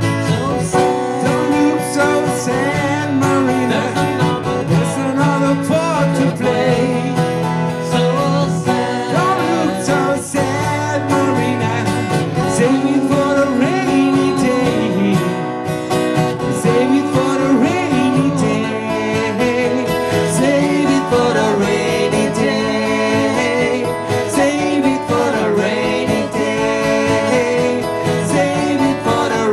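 Live band playing an instrumental passage of a country-rock song, led by acoustic guitar with a gliding melodic lead line over it.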